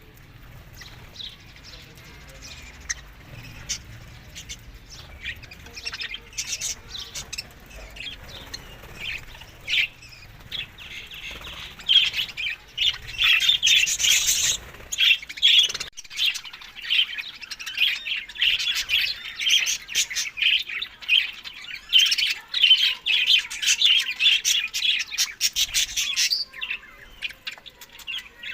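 A flock of budgerigars chirping and chattering, sparse at first and then busy and louder through the middle and latter part.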